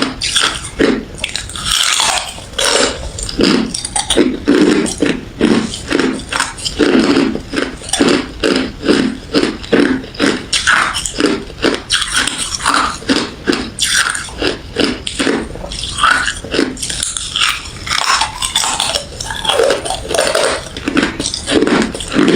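A person biting and chewing refrozen crushed ice and frosty freezer ice: a steady run of loud, crisp crunches, several a second.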